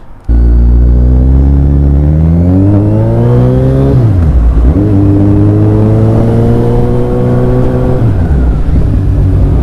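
Kawasaki Z1000 inline-four breathing through a straight-pipe Black Widow exhaust with no baffle, pulling hard under load. The revs climb, drop sharply about four seconds in and again near eight seconds as it shifts up through the gears, then hold steady.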